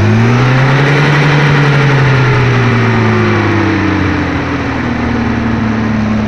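Newly fitted engine running just after a cold start on full choke: it picks up to a fast idle, then its speed slowly drops as it settles.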